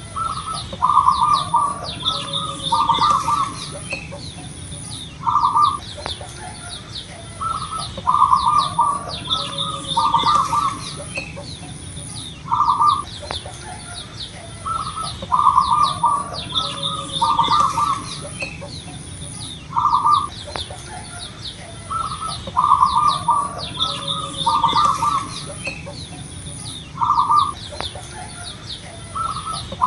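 Zebra dove (perkutut) cooing loudly, repeating its phrase of short, deep notes over and over every few seconds, with fainter high-pitched chirping behind it.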